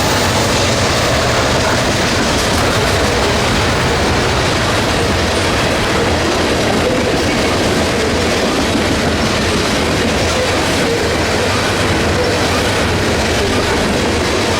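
A train's cars rolling past on the rails, a loud, steady noise of wheels on track that keeps up without a break.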